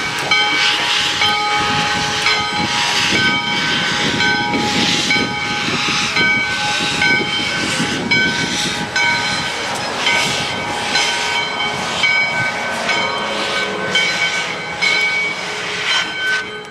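Steam locomotive No. 148, a 4-6-2, hissing steam in bursts about once a second with its cylinder cocks open while the cylinders are warmed up. A repeating ringing tone runs alongside.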